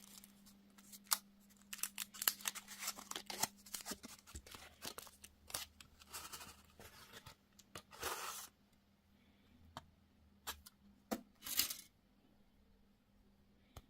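Candy and toy packaging being handled and opened: quick clicks and taps of plastic, then two longer tearing, crinkling rustles about eight and eleven and a half seconds in.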